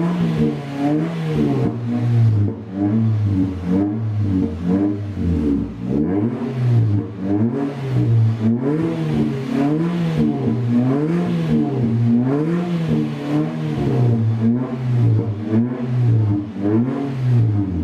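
Nissan Cube Z12's four-cylinder engine being revved up and down repeatedly through a custom one-off exhaust with the stock centre section and a straight-through rear piece. The first few seconds are uneven blips, then it settles into a steady rhythm of revs rising and falling about every second and a half.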